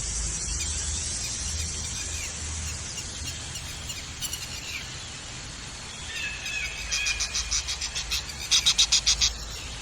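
Wild jungle ambience with birds calling. Near the end a bird gives rapid repeated calls, about five a second, in two runs; the second run is the louder.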